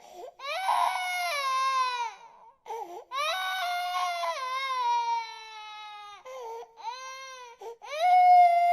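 Infant crying in long wails, about four in a row with short gasps between them, each cry starting high and sliding down in pitch.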